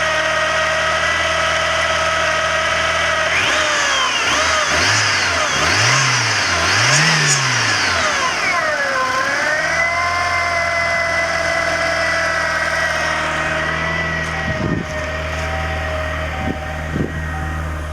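1987 Ford Thunderbird Turbo Coupe's 2.3-litre turbocharged four-cylinder idling very smoothly, blipped three times in quick succession about four to eight seconds in, then dropping back to a steady idle. A few short clicks near the end.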